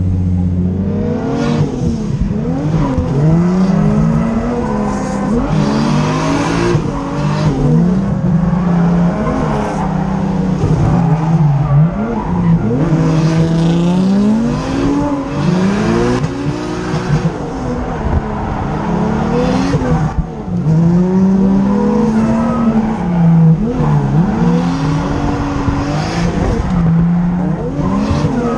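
Turbocharged Nissan RB25DET straight-six in an S14 240SX revving hard and dropping back again and again through a drift run, heard from inside the cabin. Tyres squeal under the engine noise.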